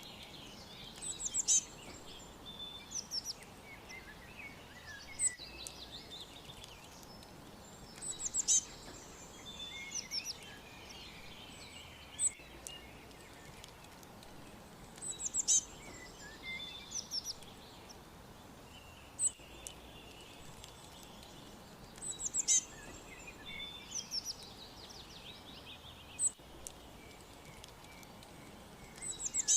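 Wild birds chirping: sharp high notes and short trilling phrases that recur every few seconds, over a faint steady hiss of background ambience.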